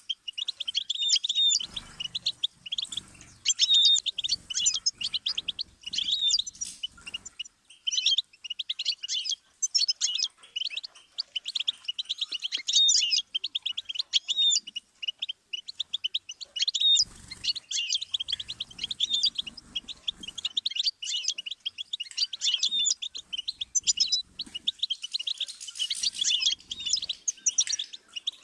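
Goldfinch singing a long, rapid twittering song, phrase after phrase with only brief breaks.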